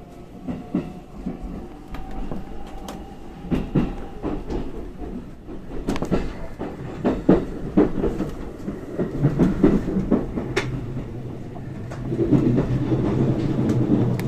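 Electric commuter train pulling out and gathering speed, heard from inside the car. Its wheels clack irregularly over rail joints and points over a running rumble, and a steady low hum grows louder near the end.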